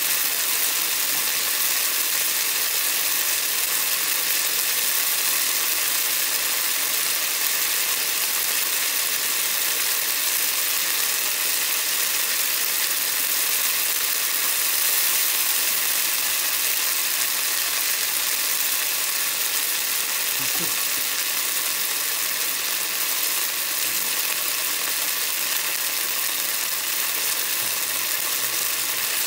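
Eggplant pieces sizzling steadily as they fry in shallow oil in a frying pan. About halfway through, a thin stream is poured into the pan and the sizzle briefly gets a little louder.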